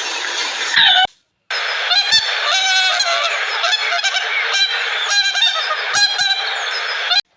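Waterfowl honking: many short calls overlapping as from a flock, starting after a brief break about a second in.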